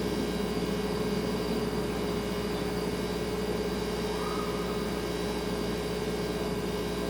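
Kitchen refrigerator humming steadily: a constant mid-pitched tone over an even background hiss. A faint wavering tone drifts in about four seconds in.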